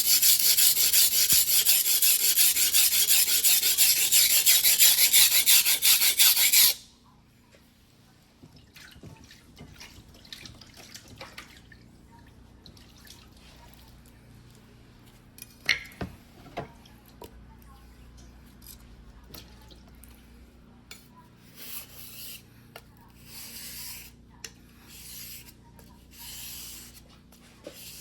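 A single-bevel sashimi knife ground by hand on a wet whetstone: loud, fast back-and-forth rasping strokes that stop abruptly about seven seconds in. These are followed by quieter scattered scrapes, a sharp click about halfway through, and a few short swishes near the end.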